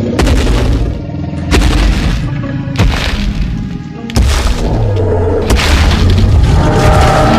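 Background music with a run of five heavy booming impacts, about one every second and a half, each crashing in suddenly.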